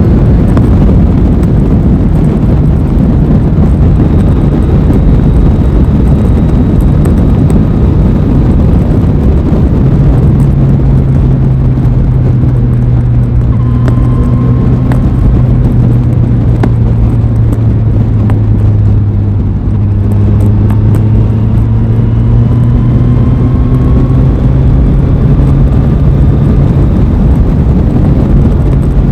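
Aprilia Tuono 660's parallel-twin engine running under way at a steady engine speed, with heavy wind rush on the microphone. The engine note dips briefly about two-thirds of the way through, then climbs again.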